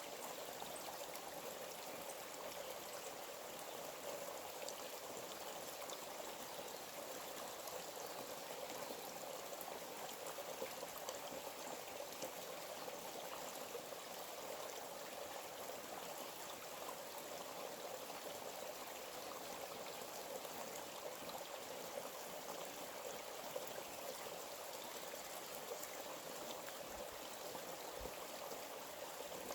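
Stream of water running steadily over stones, a soft even rushing with fine splashing.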